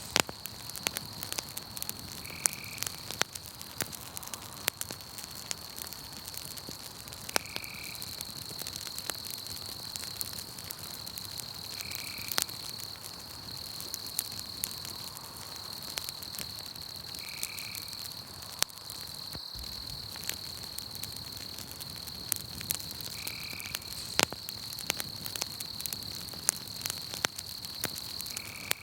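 Campfire crackling, with sharp pops scattered irregularly throughout, over a steady high insect trill of night crickets. A short, high call repeats about every five seconds.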